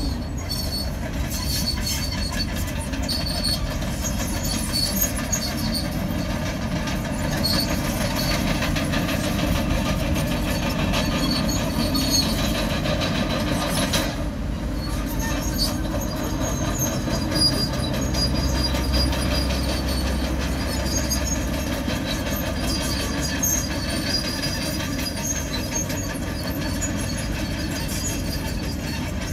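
Komatsu bulldozer running under load: a steady diesel engine rumble with the squeal and clank of its steel crawler tracks. There is a brief break about halfway through.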